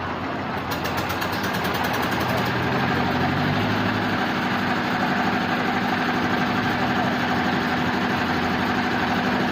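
A sawmill machine's engine running steadily with a constant hum. A fast, fine ticking sounds over it for the first two seconds, and the hum's pitch steps up a few seconds in.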